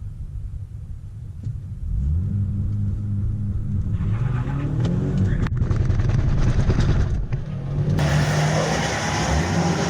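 Car engine running and revving, its pitch stepping up and down, with abrupt changes in the sound partway through.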